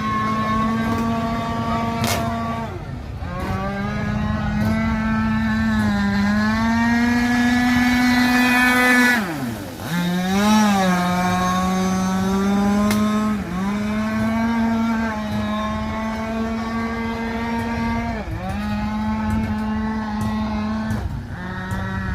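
Zenoah 26cc two-stroke petrol engine of an RC V-hull boat running at high revs, its note steady but dipping briefly several times as the throttle is eased; about halfway through it drops sharply and climbs straight back up.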